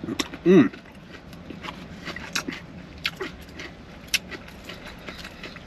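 Close-up mukbang eating sounds: chewing and wet smacking with scattered sharp clicks, from a mouthful of poke bowl. About half a second in there is a short sound that falls in pitch.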